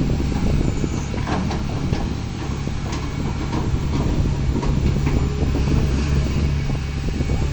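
An engine running steadily at a low, even hum, with scattered knocks and clatter over it.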